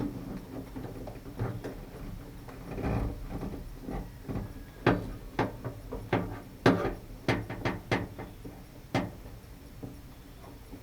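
Hand tools and metal parts being worked on a pickup truck door while fitting a new outside door handle. Soft handling and rustling give way about halfway in to an irregular run of sharp clicks and knocks.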